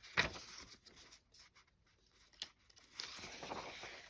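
Paper and card being handled: a sharp rustle just after the start, a single click about halfway, then a longer rustle of paper sliding or pages turning near the end.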